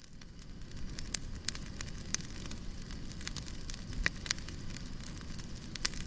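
Wood fire crackling in a fireplace: scattered sharp pops and snaps over a steady low rumble of burning.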